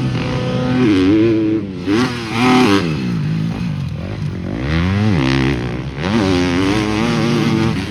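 Motocross dirt bikes racing on the track, engines revving up and down as the riders work through the gears: loud, with the pitch climbing and dropping several times. Loud enough that it won't pass sound testing.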